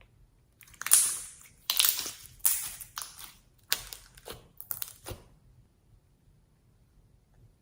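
Crunching and crackling as something is crushed by hand while being mixed into slime: a run of irregular crunches over about four seconds, then it stops.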